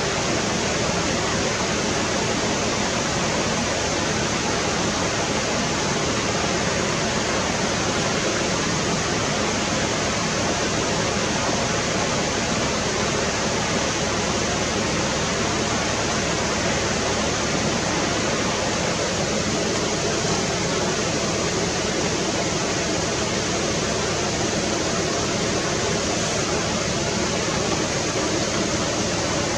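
Steady rushing water of a river or stream, an even roar with no change throughout.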